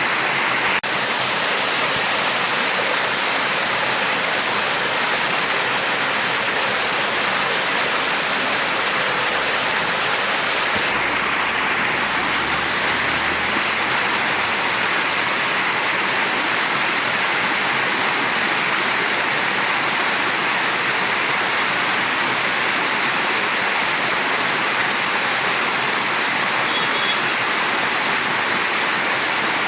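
Mountain stream rushing over rocks, a steady, unbroken wash of flowing water, with a brief dropout about a second in.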